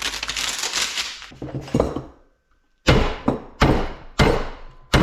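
Metal clattering and scraping, then a pause, then a steady run of sharp hammer blows, about two a second, as a scrap electric motor is hammered apart to free its copper windings.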